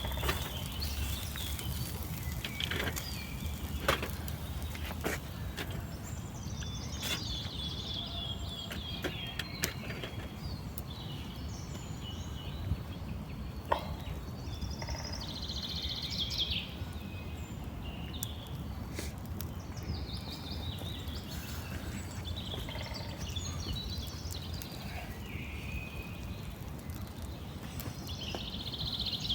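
Outdoor ambience: birds chirping and trilling on and off over a steady low rumble, with a few sharp clicks.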